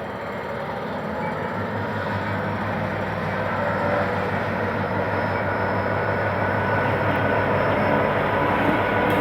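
GM GT22CW-2 diesel-electric locomotive, with its EMD 645 two-stroke diesel, pulling a passenger train out of a station. Its engine hum comes in about a second and a half in, and the sound grows steadily louder as the train draws closer.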